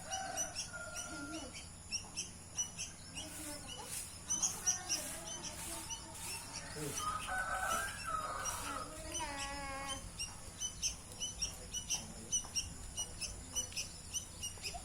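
Young white-breasted waterhen (ruak-ruak) chicks peeping: many short, high peeps repeating several times a second, with a faint voice partway through.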